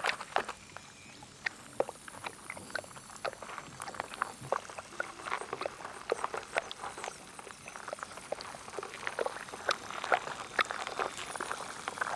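Irregular small clicks and crackles, scattered at first and thickening about ten seconds in.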